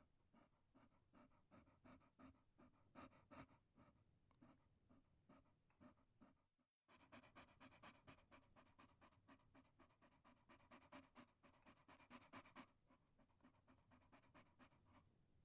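A chihuahua panting in quick, rhythmic breaths, with a brief silent break about seven seconds in.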